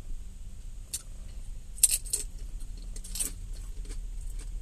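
Chewing and crunching on a salad-topped tortilla chip, with a few sharp, crisp crunches about one, two and three seconds in.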